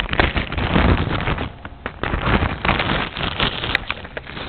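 Close rustling and crinkling handling noise with irregular clicks and knocks, as fireworks packaging in a box is rummaged through.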